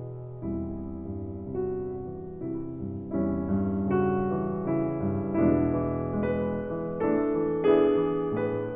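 Soft background piano music: slow chords struck about once a second, each dying away.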